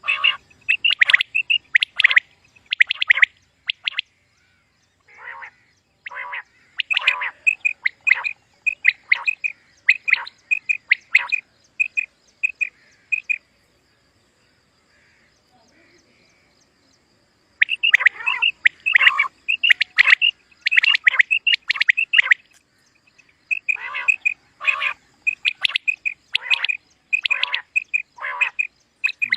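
Common quail calling: runs of short, quickly repeated chirping notes, with a pause of a few seconds in the middle.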